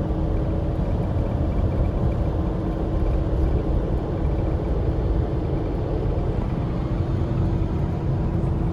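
Steady low rumble with a faint steady hum over it.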